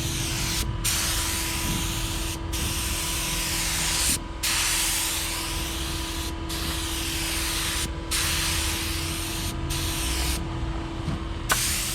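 Compressed-air paint spray gun hissing as it sprays paint on a truck bed. The hiss stops briefly every second or two between passes.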